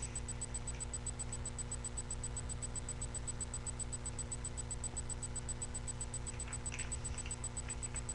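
Steady low electrical hum with a fast, even ticking from the recording, and a few faint rustles of paper being folded into airplane wings about six to seven seconds in.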